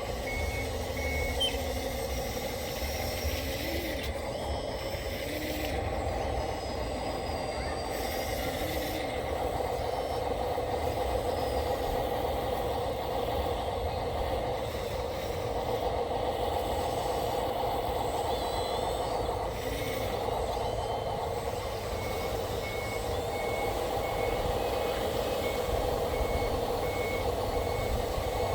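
Backup beeper of an RC construction machine, a short high beep repeating about twice a second, heard at the start and again from about three-quarters of the way in. Under it runs a steady mechanical drone of the machine working.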